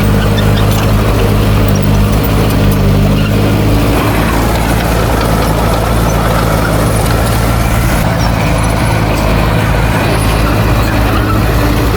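Heavy earthmoving machine's diesel engine running steadily under load, its note shifting slightly about four seconds in.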